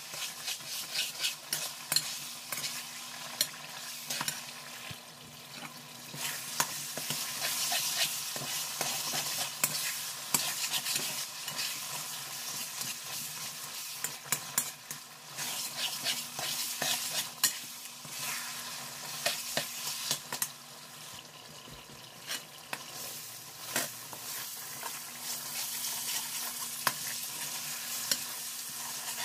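Semolina halwa sizzling in hot oil in a metal wok while a slotted spatula stirs it and scrapes it off the pan, sharp scrapes and taps of the spatula over a steady sizzle. It is the long frying stage, where the halwa is left to stick and then scraped up.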